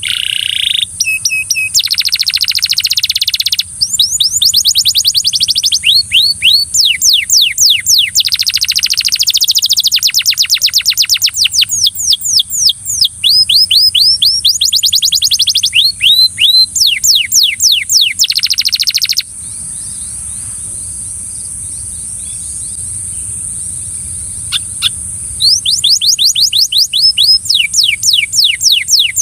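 Canary singing in long, fast trills of quick down-slurred notes, changing tour every few seconds. About two-thirds of the way in it falls silent for several seconds, gives a couple of soft chips, then starts trilling again near the end.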